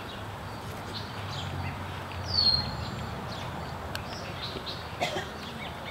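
A bird's short whistled call that slurs downward, once about two seconds in, over a faint low background rumble.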